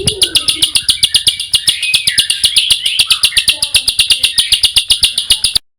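A small songbird chirping rapidly and continuously, about ten sharp, high chirps a second, the fast, dense 'tembakan' type of call used as master song for cage birds; it cuts off suddenly near the end.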